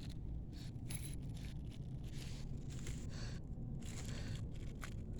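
Quiet background with a steady low rumble and no distinct snaps.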